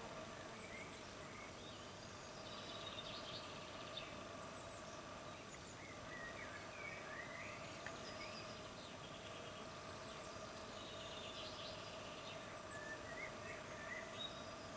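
Several garden birds chirping and trilling, faint, with short calls and repeated trills throughout, over a low steady hum.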